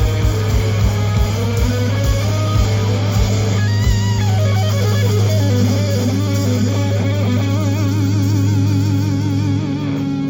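Live rock band playing an instrumental passage with electric guitar and bass. Fast drum hits give way about four seconds in to a held bass note under a vibrato guitar lead, which slides down near the end.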